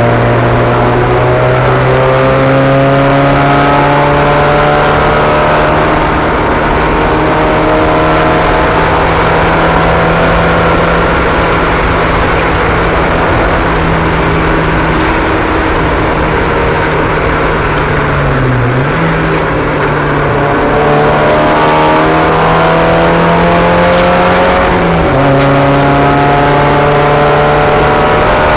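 Racing car engines running at steady high speed, with other cars' engine notes rising and falling underneath. The main engine note drops briefly twice, about two-thirds of the way through and again a few seconds later, as if the throttle were eased.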